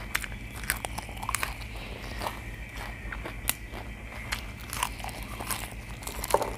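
Close-up eating sounds: a person biting and chewing fresh raw green vegetables, with many short, irregular crisp crunches and wet mouth clicks.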